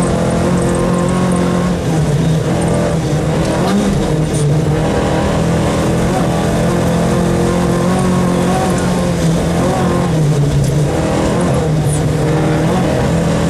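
Rally car engine running hard, heard from inside the car, its pitch rising and dropping several times with throttle and gear changes, over a steady haze of road noise from the tyres on the snowy stage.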